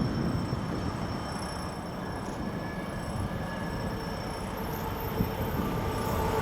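TEP70 diesel locomotive and its suburban train running along the line with a steady low rumble, growing louder toward the end as it comes closer.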